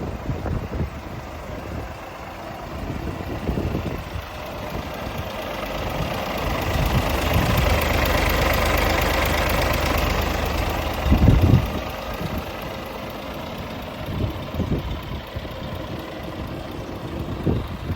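Scania S450 truck's 13-litre six-cylinder diesel engine idling. The sound swells for several seconds in the middle, and a loud thump follows just after.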